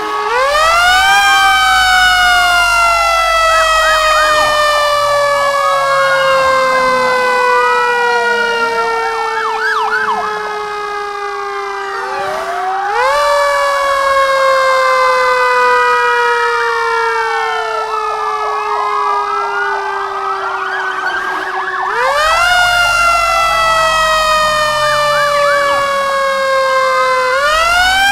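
Fire truck sirens sounding together. A long wail climbs quickly and then falls slowly over about ten seconds, starting over three times. Faster wailing sirens overlap it through the middle.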